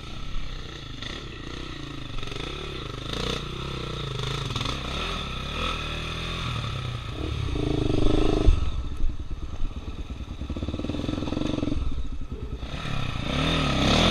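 Dirt bike engine revving in bursts, the pitch rising and falling, with a louder rev about halfway through and another near the end.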